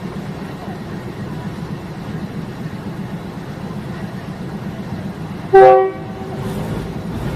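Diesel multiple unit train running with a steady low rumble, its horn giving one loud short blast about five and a half seconds in.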